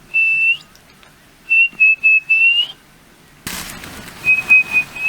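A person whistling to call an equatorial antpitta: short steady whistled notes on one pitch, each phrase bending upward at its end. There is one note just after the start, a string of notes in the middle, and another string near the end.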